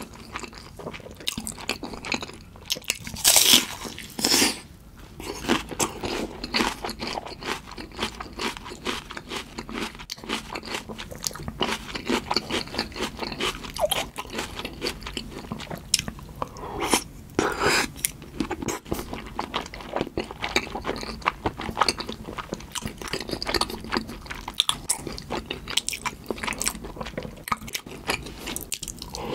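Close-miked chewing with crisp crunching bites, the crunch of raw onion eaten alongside soft salmon sushi in tartar sauce. The loudest crunches come about three to four seconds in and again about seventeen seconds in.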